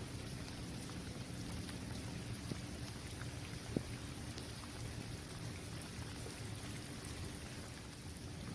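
Steady rain falling on an outdoor basketball court, an even hiss of drops with scattered small ticks over a low rumble. One sharper drip or tap stands out about four seconds in.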